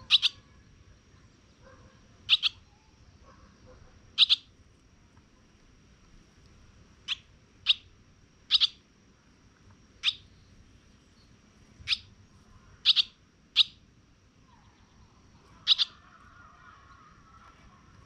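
A bird giving single short, sharp chirps, about a dozen of them, one every second or two at an uneven pace.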